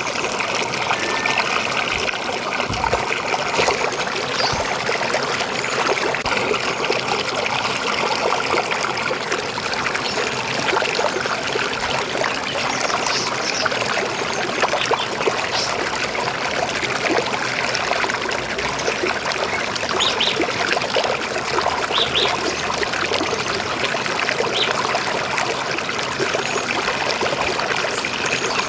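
River water flowing steadily over stones, trickling and gurgling, with a few brief high bird chirps in the second half.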